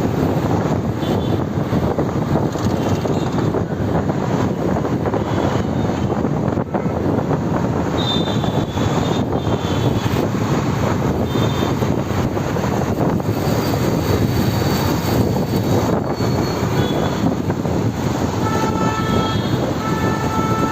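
Steady rushing road and wind noise from a moving motorbike in traffic. A few short repeated beeps come near the end.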